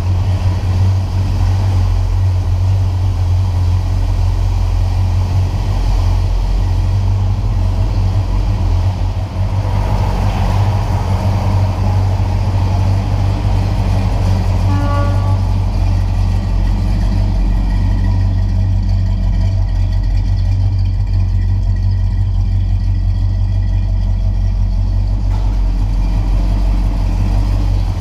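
1967 Oldsmobile 442's 400 cubic-inch V8 idling with a steady low rumble.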